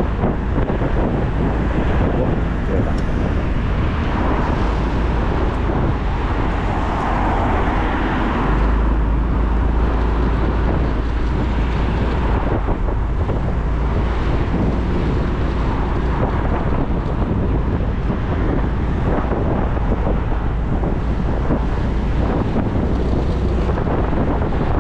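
Wind buffeting the microphone of a moving motorcycle, a loud steady rush with a deep rumble, over the riding noise of the bike on the road.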